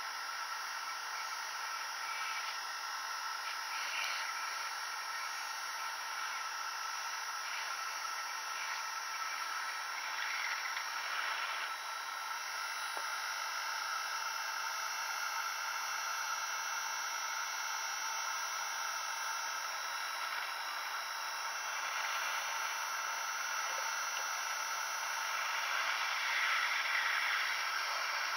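Steady hiss of air with a faint constant whine from a hot air gun blowing, heating a laptop graphics chip to reflow its BGA solder joints.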